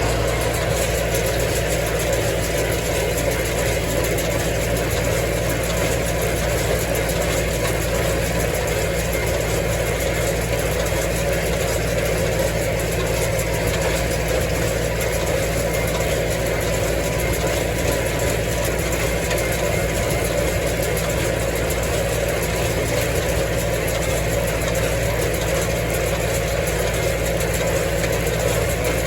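Massey Ferguson tractor engine running steadily at an even speed, without any change in pitch.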